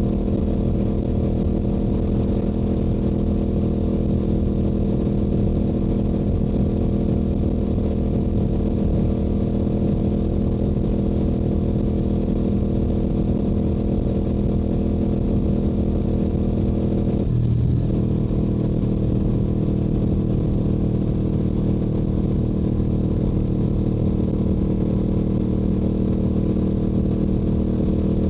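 Stock exhaust of a Yamaha YZF-R7's parallel-twin engine running steadily at highway cruising speed. About seventeen seconds in the engine note breaks off briefly and then picks up again.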